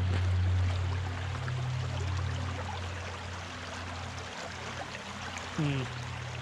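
Creek water rushing and splashing, over a steady low rumble. Near the end comes a short rising hum.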